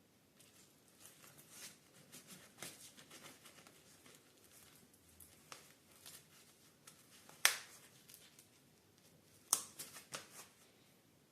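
Faint, irregular light scrapes and ticks of small objects being handled, with two sharper clicks later on, the second followed by a quick run of smaller ones.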